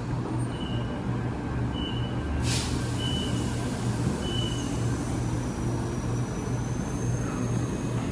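Steady low machinery hum of railway station surroundings, with four short high beeps about a second apart and a brief hiss about midway.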